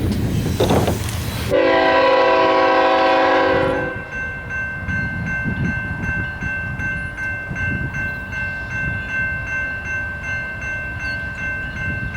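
Diesel freight locomotive air horn sounding one chord-like blast of about two seconds, then the train rumbling past with a faint steady high ringing over it.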